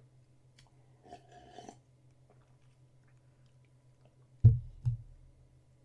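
A person chewing a sandwich faintly with mouth closed, then two short dull low thumps about four and a half seconds in.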